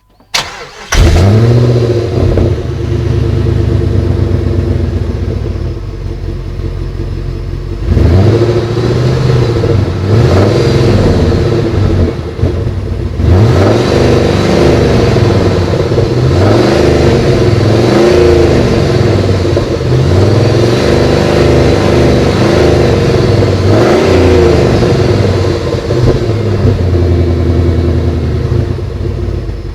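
2000 Jeep Grand Cherokee's 4.7-litre V8 exhaust: the engine starts with a short crank and catches about a second in with a flare of revs, then idles. From about eight seconds in it is revved repeatedly, each rev rising and falling, and it settles back to a steady idle near the end.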